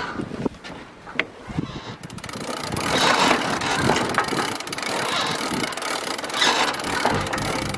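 Rushing noise of wind and water on a sailing boat at sea, with scattered clicks; it becomes louder and denser about two seconds in.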